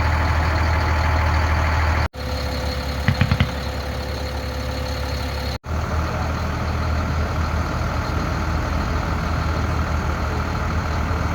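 A vehicle engine running steadily with a deep drone, broken twice by abrupt cuts. A few quick, sharp sounds come about three seconds in.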